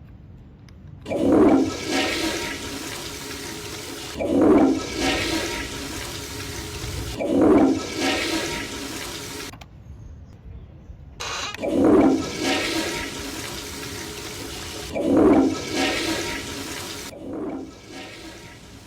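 Water gushing in five loud surges, each tailing off into a hiss, with a short break after the third.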